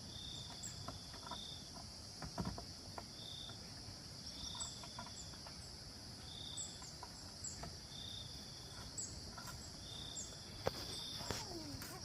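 Insects shrilling steadily, with a short chirp repeating about once a second and scattered quick, high falling chirps. A few faint knocks, and near the end a brief falling whistle-like sound.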